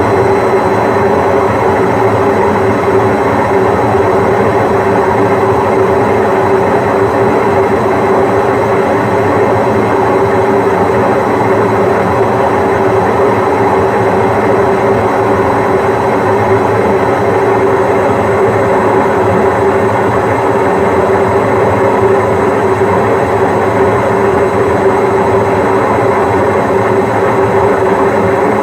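Washing machine on a long spin cycle: a steady, loud whirring drone with a constant hum that does not change in level or pitch.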